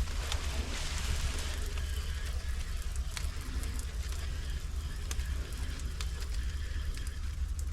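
Pressure washer running steadily, its low engine hum under the hiss and spatter of the water spray hitting a surface.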